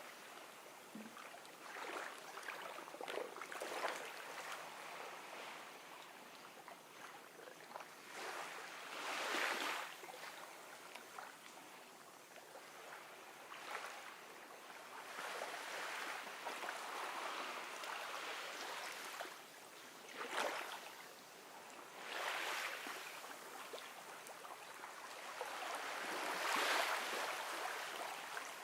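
Gentle small waves washing onto a beach. Each one swells in a soft rush every few seconds and drains away, with the water fizzing and trickling between them.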